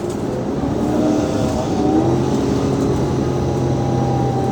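Alexander Dennis Enviro500 MMC double-decker bus heard from on board: its Cummins ISL 8.9-litre diesel and ZF Ecolife six-speed automatic gearbox are under way, with whining tones that rise in pitch several times over the engine's rumble.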